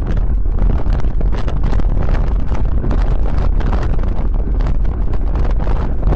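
Wind buffeting the microphone of a camera on a moving bicycle: a loud, steady, deep rush with no let-up.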